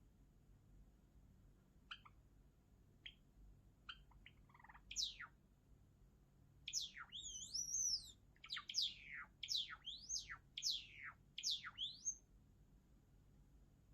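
Java sparrow singing: a few soft, scattered chirps, then from about halfway in a quicker run of louder sweeping notes that ends on a short rising note.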